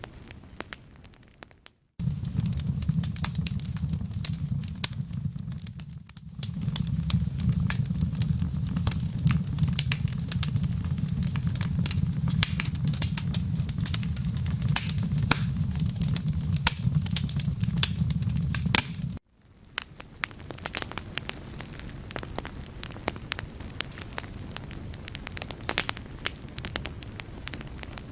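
Fire crackling with dense, irregular pops and snaps. A low, steady rumble joins it, cutting in suddenly about two seconds in and stopping abruptly in the last third.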